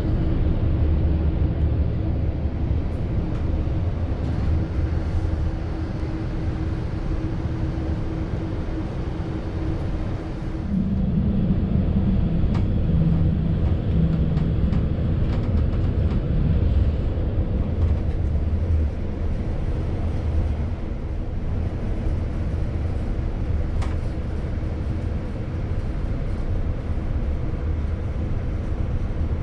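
ZSSK Ampz passenger coach behind a ZSSK 350 electric locomotive running at speed: a steady rumble of wheels on rails with a faint steady hum. About ten seconds in, the hum drops away and the rumble changes tone and grows a little louder for several seconds.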